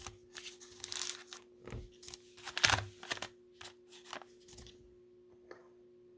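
Plastic cello-pack wrapper of trading-card packs being torn and crinkled in hand, in irregular rustling bursts that die away after about four and a half seconds. A faint steady hum runs underneath.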